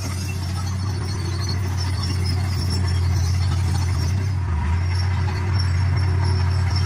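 D41 bulldozer's diesel engine running steadily under load, with a high squeal over the low drone that comes and goes. The machine gets slightly louder about three seconds in.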